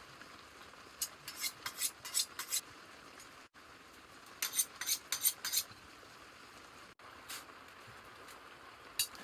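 A metal utensil clinking and scraping against a cooking pot, as when stirring: two runs of quick clinks, then a single clink near the end.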